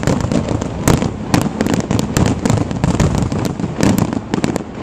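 Fireworks display going off: a dense barrage of shells bursting and crackling, many cracks and bangs each second over a continuous rumble of booms and their echoes.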